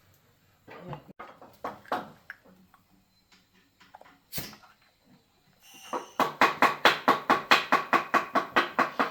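A few scattered knocks and one sharp click, then from about six seconds in a fast, even run of strokes, about five a second.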